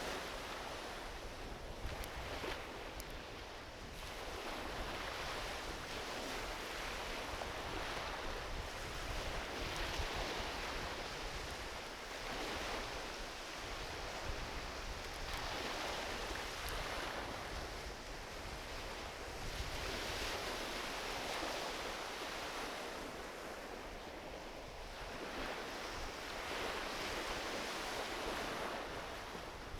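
Small ocean waves washing onto a beach, each wash swelling and fading every several seconds, with a few faint crackles from a driftwood campfire.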